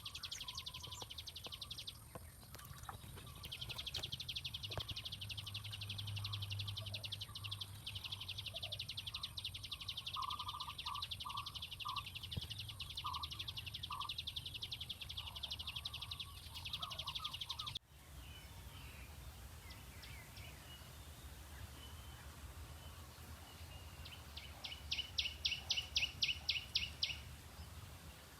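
Outdoor nature ambience: dense, rapid high-pitched chirping with bird calls over a steady low hum. It cuts abruptly to quieter ambience about 18 seconds in, and a short run of about ten loud, high chirps comes near the end.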